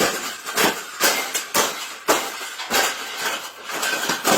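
A round wire bird cage being bent and folded by hand: irregular metal clanks and rattles, about two or three a second.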